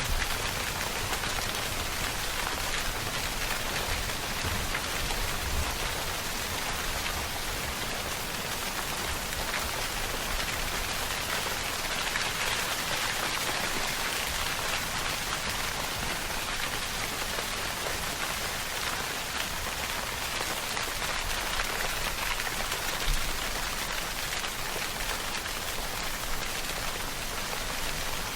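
Steady rainfall pattering on a surface, an even hiss of drops with no thunder.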